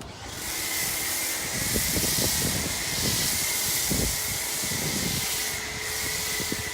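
Pressure washer foam cannon spraying soap onto a car: a steady spray hiss that starts at once, with a thin steady whistle running through it.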